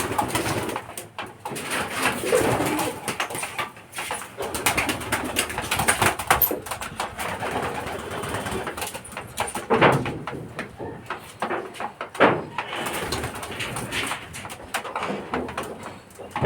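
Many racing pigeons cooing continuously, their overlapping coos mixed with scattered sharp clicks and flutters.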